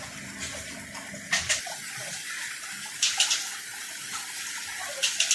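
Steady rush of running water, with short louder splashy hisses about a second, three seconds and five seconds in.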